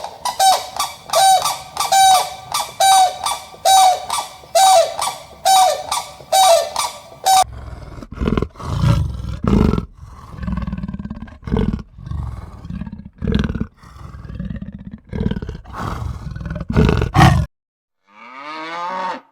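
Animal calls from a run of farm-animal clips: first a quick series of short, pitched calls repeating about twice a second, then a string of irregular low, rough calls. These stop suddenly, and after a brief silence another long pitched call begins near the end.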